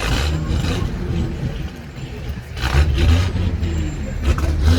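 Vehicle engine running and revving in uneven surges, one at the start and a longer one from a little before three seconds in; the engine is struggling and stalls repeatedly.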